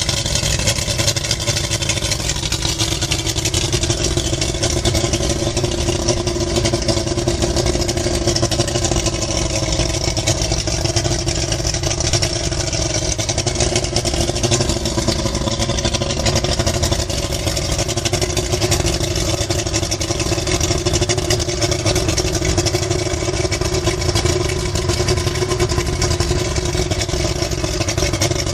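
2002 Yamaha VX150 Vmax 150 HP two-stroke V6 outboard motor running steadily at a constant engine speed.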